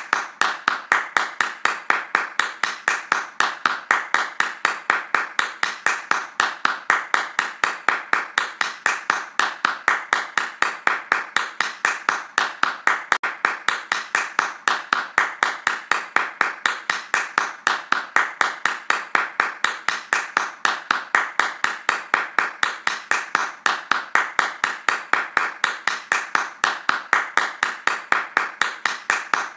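Hands clapping fast in a steady, even rhythm, every clap sharp and alike.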